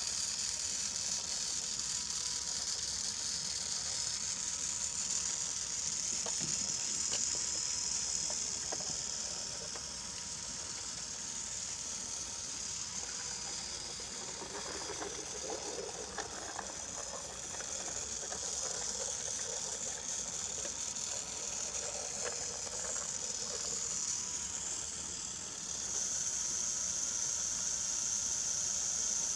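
Battery-powered Brio toy train running on wooden track: a steady high-pitched motor and gear whine, with the wheels clattering over the track in a rattling stretch around the middle.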